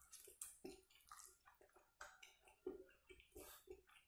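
Faint, close wet chewing and mouth smacking from a person eating rice and pork curry by hand, in short irregular squelches and clicks.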